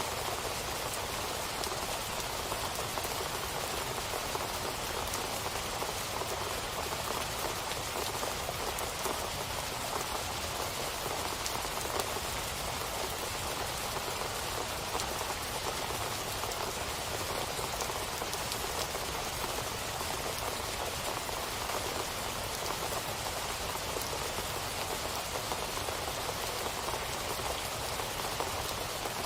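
Steady rain falling and pattering on surfaces: an even hiss of rainfall with countless small drop ticks and no change in strength.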